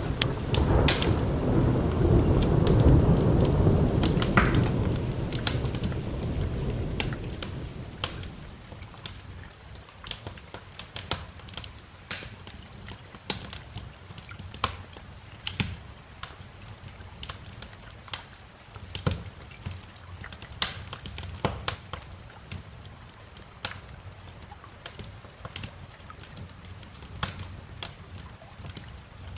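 A long roll of thunder rumbling over steady rain, dying away about seven seconds in. After that, rain hiss with the sharp, irregular pops and snaps of a crackling wood fire.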